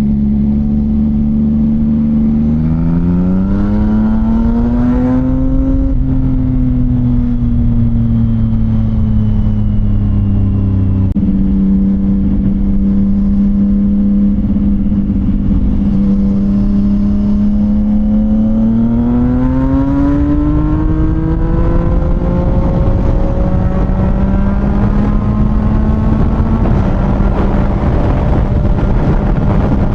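CFMOTO 675NK's three-cylinder engine running through a titanium full-system exhaust, picking up revs about three seconds in and again near twenty seconds, and holding a steady pitch in between.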